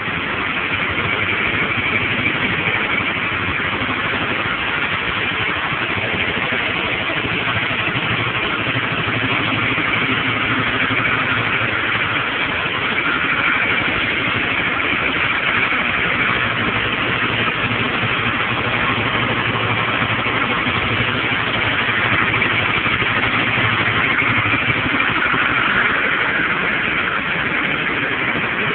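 Kawasaki Ninja 650R's parallel-twin engine running steadily through its stock exhaust, with a few gentle swells in level.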